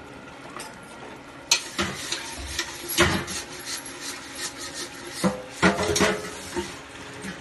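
Metal pots and utensils clattering and scraping, a run of irregular knocks and clinks.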